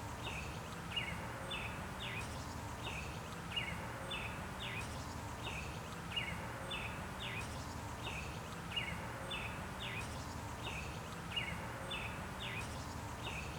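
A songbird singing a long run of short, high, downward-sweeping chirps, repeated at an even pace, over steady outdoor background noise.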